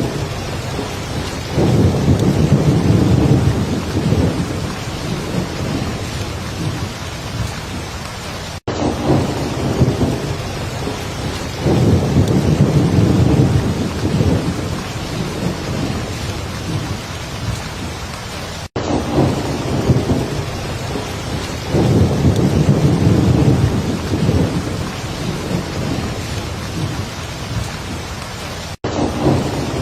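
Heavy rain falling steadily, with a low thunder rumble that swells and fades three times, about every ten seconds. A very brief dropout marks each repeat.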